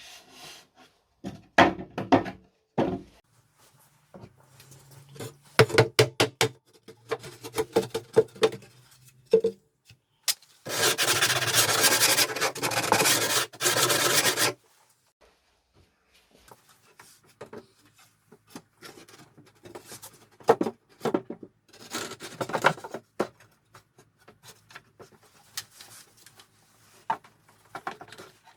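Hand work on an old wooden cabinet: scattered knocks and taps, then rubbing and scraping on wood, with a steady rasping noise lasting about four seconds midway.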